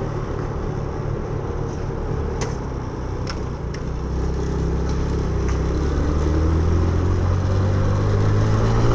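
Suzuki Intruder 125's single-cylinder four-stroke engine running as the motorcycle is ridden, heard over wind and road noise. From about four seconds in the engine note grows louder and steadier as the bike pulls away under throttle.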